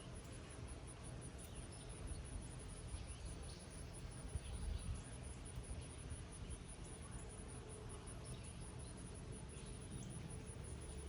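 A steady high-pitched insect trill, pulsing rapidly and evenly, over the soft hiss of light summer rain on a meadow, with a low rumble underneath.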